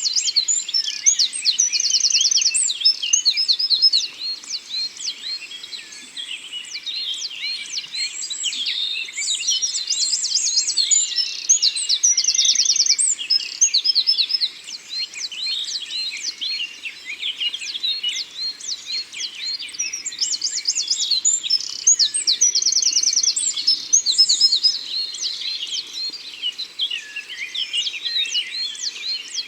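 Dawn-chorus-like forest birdsong: many small songbirds singing and chirping at once, with several fast, repeated trills standing out now and then.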